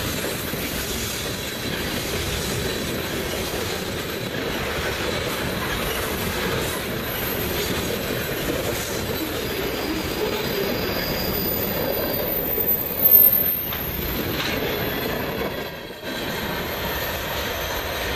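Freight cars of a passing freight train (tank cars, covered hoppers and boxcars) rolling by: a steady rumble and rattle of steel wheels on rail, with a thin wheel squeal briefly near the middle and a short, louder burst of noise about thirteen seconds in.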